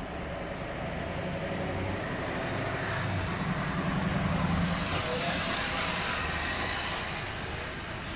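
A heavy diesel engine running with a steady low hum, getting louder to a peak about halfway through and then easing off.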